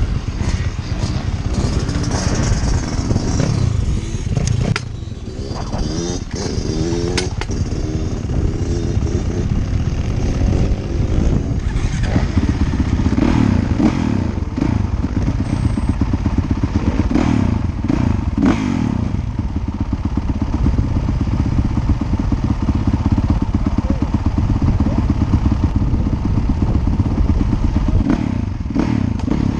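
Motocross bikes' engines revving hard on the track, the pitch rising and falling again and again as they accelerate and back off.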